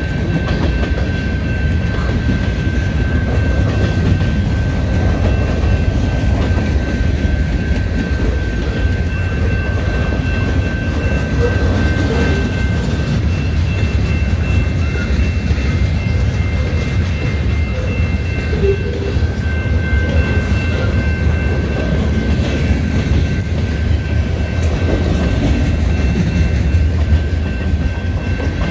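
Freight cars rolling past at speed: a steady, heavy rumble of steel wheels on rail, with thin steady high-pitched tones ringing above it.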